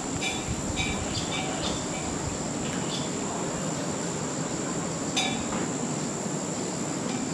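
Outdoor ambience: a run of short bird chirps about twice a second in the first two seconds and one more about five seconds in, over a steady high thin tone and a low background rumble.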